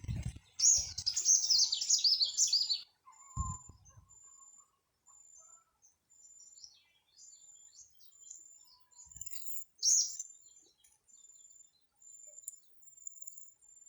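Bird chirping: a quick run of high chirps lasting about two seconds, then a shorter burst near the ten-second mark, over a faint, high, pulsing tone.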